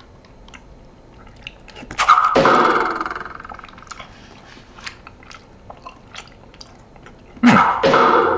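Close-up chewing of a mouthful of canned Beefaroni: soft wet clicks and smacks, with two louder voice-like mouth sounds, one about two seconds in and one near the end.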